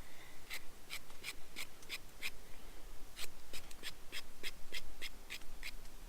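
Spine of a knife scraping the skin off a carrot in quick strokes, about three a second, with a short pause near the middle.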